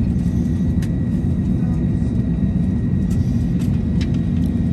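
Steady low rumble of an Airbus A321-200's cabin air system, heard inside the cabin while parked, with a faint high whine and a few light clicks.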